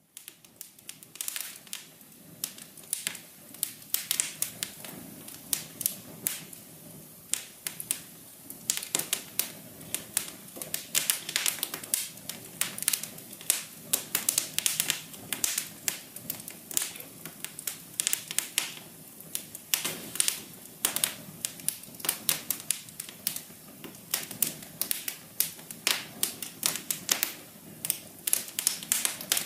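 Fire crackling: irregular sharp pops and snaps, several a second, over a soft steady hiss.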